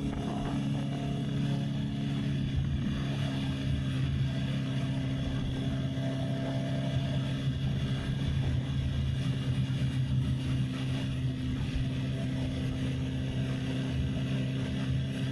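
Honda CB650R's inline-four engine running at a steady speed while the motorcycle cruises, with wind buffeting the microphone.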